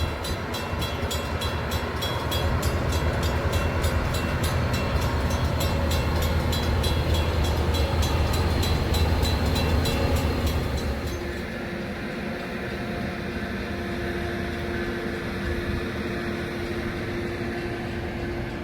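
A train passing with a heavy low rumble, under a fast, regular ringing of about three strikes a second. Both drop away about eleven seconds in, leaving a quieter steady hum.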